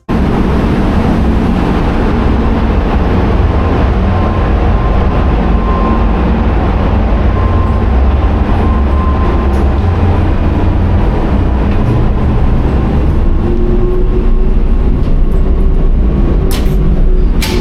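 Loud, steady rumble and drone of a ferry's engines and hull vibration heard aboard, with faint steady machine tones over it.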